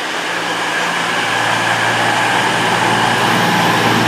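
Underfloor diesel engines of a CrossCountry Class 221 Super Voyager diesel-electric unit running with a steady low hum, growing gradually louder.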